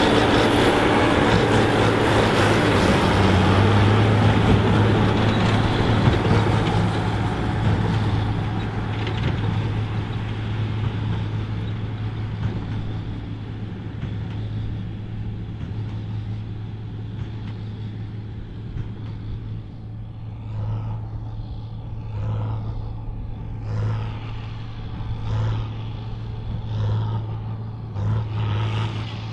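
John Deere 4955 tractor's six-cylinder diesel running hard under load while pulling a Krone BigPack big square baler. It gets quieter over the first several seconds as it pulls away, then pulses evenly about every second and a half near the end.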